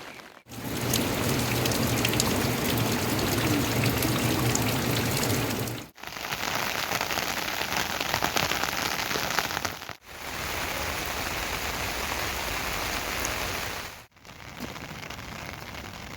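Steady rain falling, a dense patter of drops, heard in several short takes joined by brief drops in level about every four to six seconds.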